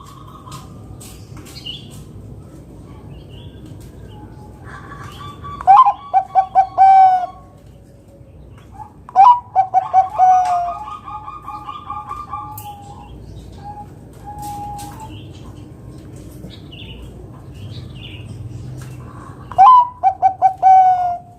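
Zebra dove (Bangkok perkutut) singing, three times: about five seconds in, about nine seconds in, and near the end. Each song is a quick run of stuttering coos that ends on a longer, lower 'kung' note.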